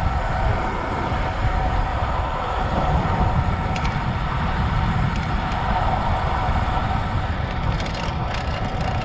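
Steady wind rush and low rumble on the microphone of a camera mounted on a road bike being ridden, with a few light clicks.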